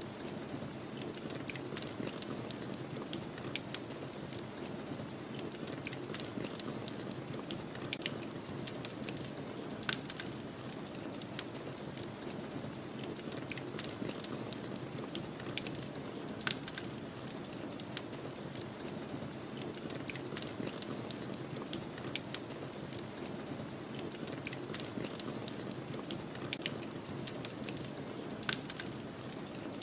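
Wood fire crackling, with irregular sharp pops and snaps over a steady low rumble of wind.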